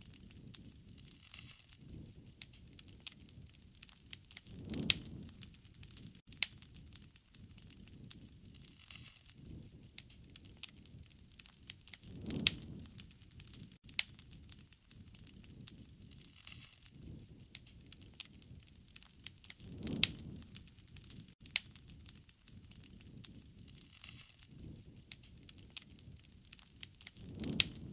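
Wood fire crackling and popping with dense sharp snaps, and a deeper swell rising about every seven and a half seconds.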